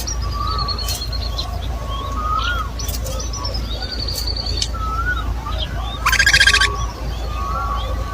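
Several birds calling: short up-and-down chirps repeating about once a second, with high thin whistles over them. About six seconds in comes a louder, buzzy call lasting about half a second.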